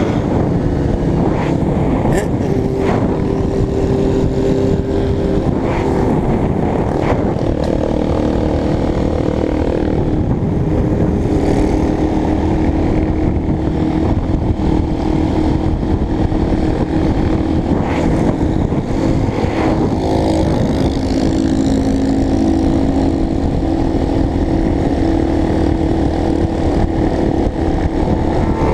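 Motorcycle engine running at a steady cruise, its drone drifting slowly up and down in pitch, under a constant rush of wind noise.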